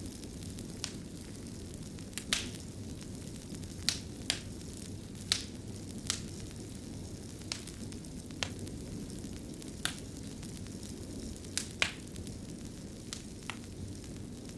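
Wood fire burning in a stone fireplace: a steady low rumble of flames with irregular sharp crackles and pops, about one a second.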